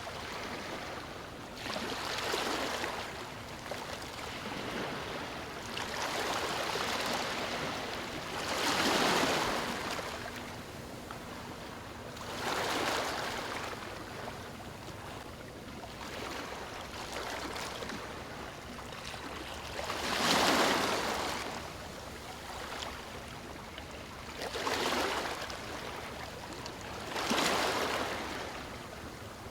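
Waves breaking and washing over a stony shore: about eight surges of rushing hiss a few seconds apart, each swelling and fading, over a constant background wash of water.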